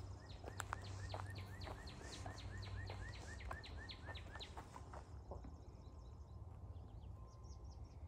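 A songbird singing an even series of short down-slurred notes, about four a second, for about four seconds. Fainter high chirps follow near the end, over a steady low hum.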